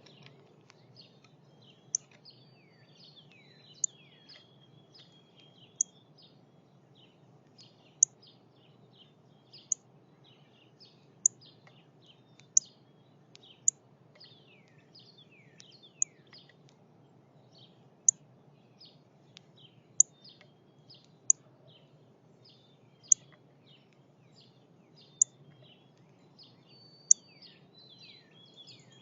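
Northern cardinal giving sharp, high chip notes about every two seconds, over a background of other birds' calls and song.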